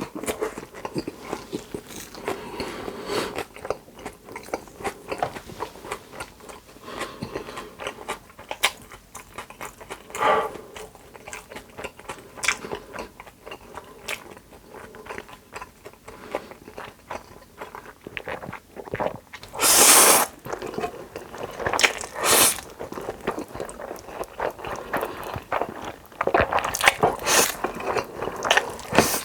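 Close-miked mukbang eating sounds: crunchy bites and chewing of food. There are many small crackles throughout, with a few louder crunching bursts about two-thirds of the way through and again near the end.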